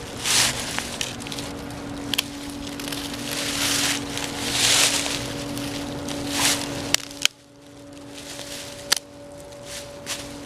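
Dry leaves and sticks crunching and rustling in several separate bursts, with a sharp click about seven seconds in, after which it goes quieter. A steady low hum runs underneath.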